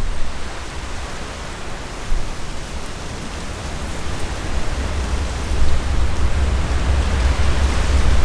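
Amtrak passenger train approaching: a steady rushing noise with a low rumble that grows louder from about halfway through.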